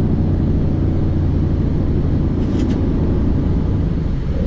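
Light aircraft's piston engine running steadily at a constant pitch, heard from inside the cockpit.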